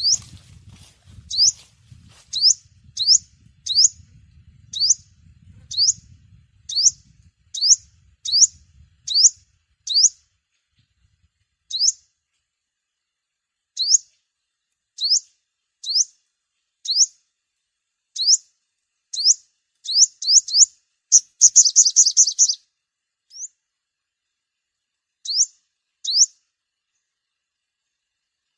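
Sunbird calling: short, sharp, high-pitched chirps repeated about once a second, breaking into a rapid chattering run about 21 seconds in. These are the contact calls the bird uses to gather its flock.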